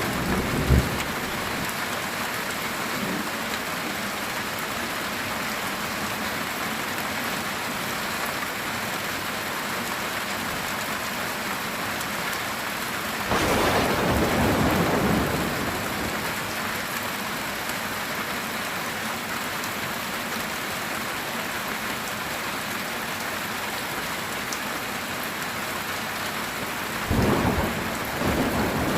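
Heavy rain falling steadily on a metal tin roof, with a roll of thunder rumbling for a couple of seconds about halfway through and another starting near the end.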